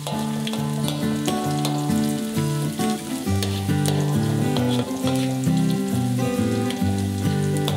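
Chopped shallots and garlic sizzling in hot oil in a wok, with a metal spatula scraping and stirring them in scattered clicks. A plucked background melody plays throughout.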